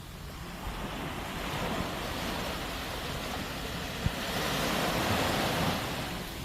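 Sea waves breaking on the shore: the surf swells to a peak about two-thirds of the way through, then washes back. A short sharp click sounds just before the peak.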